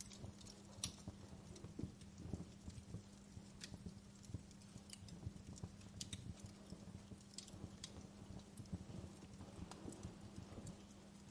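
Wood fire burning in a fireplace, crackling with irregular sharp pops and soft low knocks over a faint steady hum.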